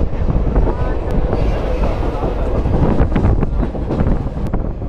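Train running noise heard from aboard a moving train: a loud, steady rumble of wheels on rails, with a cluster of sharp clacks about three seconds in.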